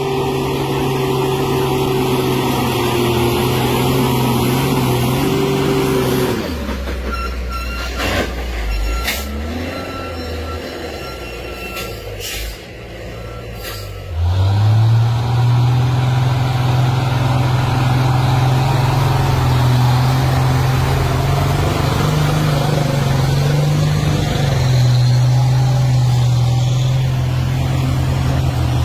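A truck's diesel engine running at steady revs. About six seconds in it drops away, leaving a quieter stretch with a few sharp knocks and a faint thin high tone. About fourteen seconds in it revs back up and holds steady.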